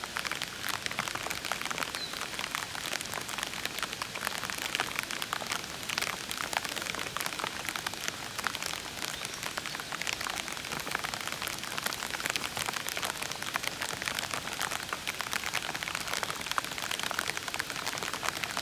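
Steady rain falling, with many distinct drop impacts ticking over a soft, even hiss.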